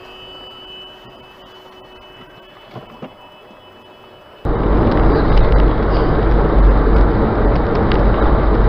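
A quiet stretch with two small clicks, then an abrupt cut about four seconds in to loud, steady vehicle rumble and road noise, as picked up by a dashcam inside a moving car.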